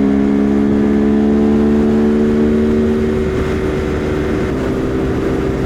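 Husqvarna Svartpilen 401's single-cylinder engine running steadily at cruising speed, with low wind rumble. The engine note edges up slightly over the first couple of seconds and then holds.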